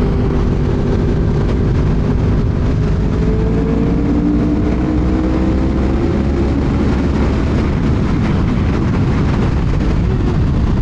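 Sport motorcycles cruising at highway speed, their engine notes holding steady and drifting slowly up and down in pitch, under heavy wind rush on the microphone.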